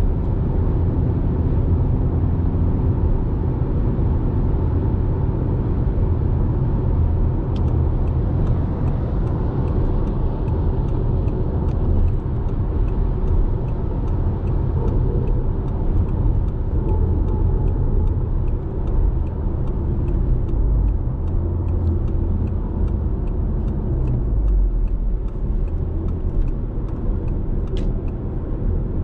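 Audi TT's 2.0 TFSI turbocharged four-cylinder with a Supersprint aftermarket exhaust, running steadily at cruising speed, heard from inside the cabin: a steady low engine and exhaust rumble mixed with tyre and road noise. From about eight seconds in, a faint light ticking repeats about twice a second.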